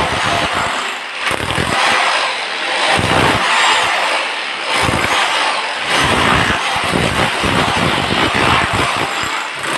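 A power tool running continuously under load, with a loud, rough mechanical noise.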